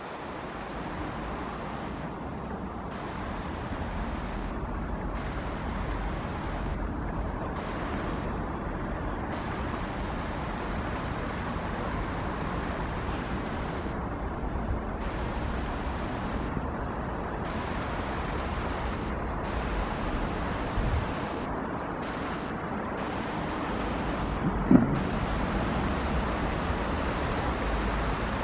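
Heavy rain falling steadily, with a low wind rumble on the microphone. A brief thump near the end.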